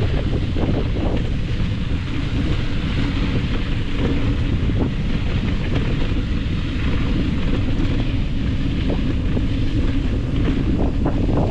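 Wind buffeting the microphone: a steady, heavy rumble, with a few faint knocks near the end.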